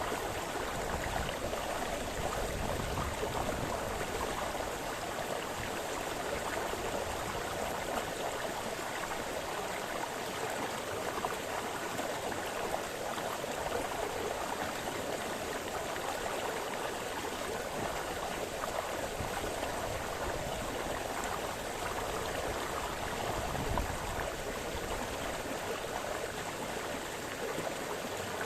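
Small brook splashing and babbling over stones: a steady, even rush of running water.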